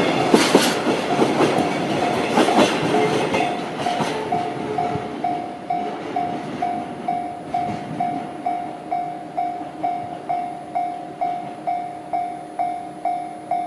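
Freight train of tank wagons, hauled by an EF65 electric locomotive, rolling past with wheels clicking over the rail joints and fading away over the first four seconds. After it, a repeating electronic ding, about two a second.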